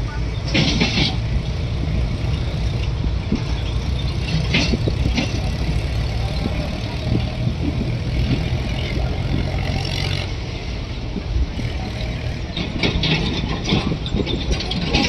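Moving passenger train: a steady low rumble with a few short bursts of higher-pitched noise.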